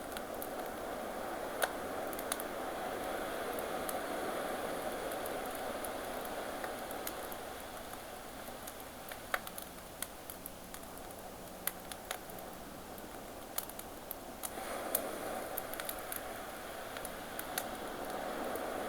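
Campfire crackling with scattered sharp pops, over the steady wash of ocean waves that swells, eases off in the middle and surges again about two-thirds of the way in.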